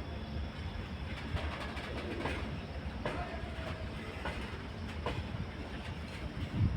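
Heavily loaded BCNA covered freight wagons rolling by: a steady rumble with wheels clacking over rail joints every second or so.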